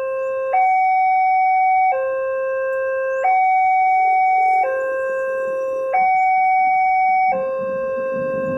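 Railway level-crossing warning alarm sounding a steady two-tone hi-lo signal, switching pitch about every 1.3 seconds to warn that a train is approaching. A low rumble builds near the end.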